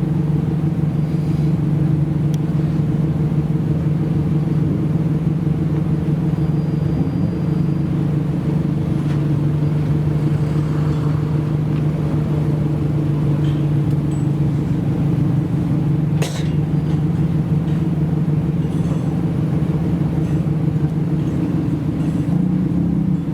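Modified Japanese car's engine running at a steady speed, an even low drone with no revving. A single sharp click about 16 seconds in.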